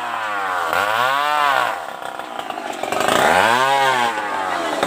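Small engine revved up and back down twice, its pitch rising and falling each time.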